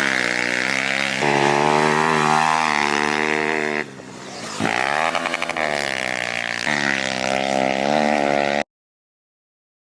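Small-bore pit bike engine revving under throttle, pitch climbing and shifting as it rides; about four seconds in the throttle is chopped and the pitch drops, then climbs again. The sound cuts off abruptly to silence near the end.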